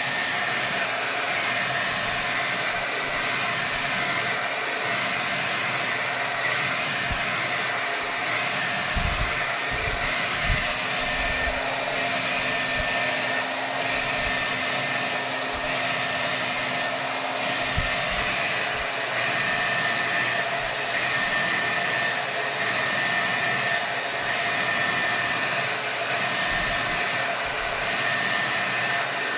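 Hair dryer running on its maximum setting: a steady rush of air with a thin high motor whine over it and a few soft low thumps.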